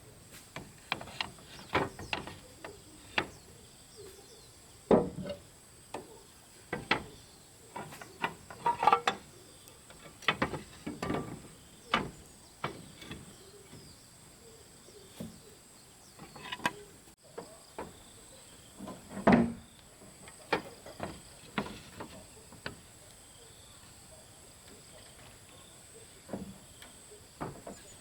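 Irregular knocks and thuds, some heavy, a few clustered in quick runs, over a steady high insect drone.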